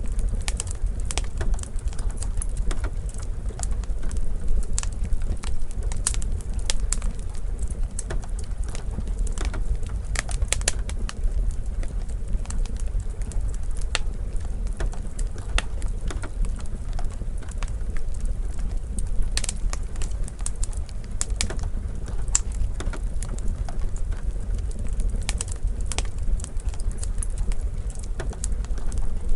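Wood fire crackling, with irregular sharp pops and snaps over a steady low rumble, and rain falling steadily.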